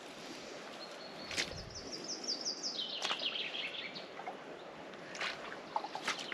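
A songbird sings one phrase of quick, high notes, starting about a second in and dropping in pitch toward its end, over a steady outdoor hiss. A few sharp knocks or cracks sound now and then, typical of cattle moving through the woods.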